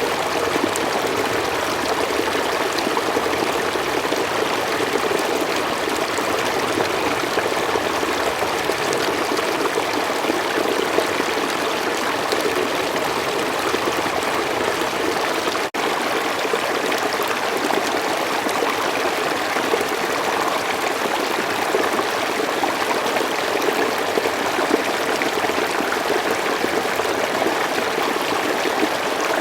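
Forest stream flowing over rocks: a steady, even rush and babble of running water. It cuts out for an instant about halfway through.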